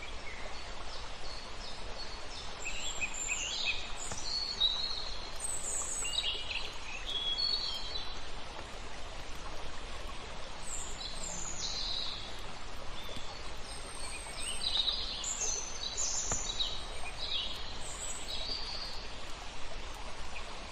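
Many small birds chirping and singing in short repeated phrases over a steady hiss of flowing water, with a few faint crackles from a wood fire.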